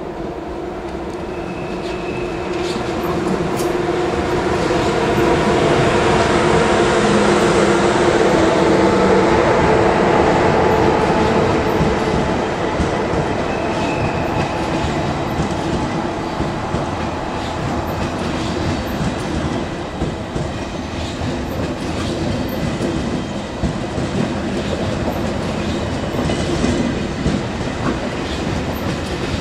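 ICE high-speed train rolling along the track beside the platform over station pointwork, its wheels clicking over rail joints and switches. The running noise swells to its loudest about a third of the way in, then holds steady, with a couple of faint, brief wheel squeals.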